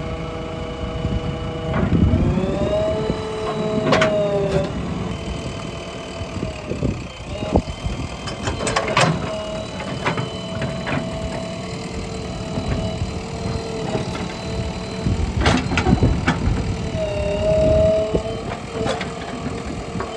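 JCB backhoe loader's diesel engine running and revving up under load twice, with sharp metallic clanks from the working machine every few seconds.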